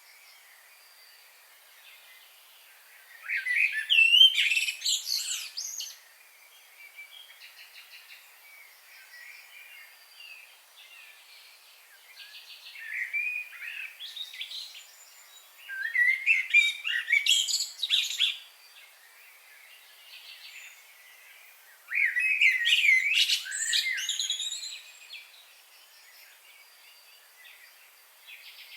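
Birdsong: three loud bursts of rapid chirps and trills, each lasting a few seconds, with softer calls in between.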